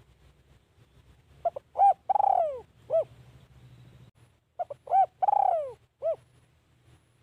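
Spotted dove cooing: two full song phrases about three seconds apart, each a couple of short quick notes, a long note that slides down in pitch, and a short closing coo.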